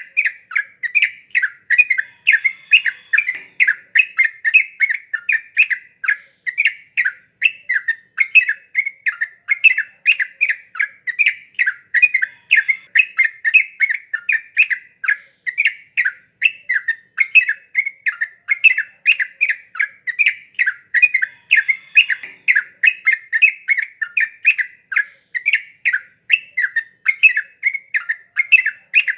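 Yellow-vented bulbul (trucukan) singing gacor: a continuous, loud run of short, bubbly chattering notes at about three a second, without pause.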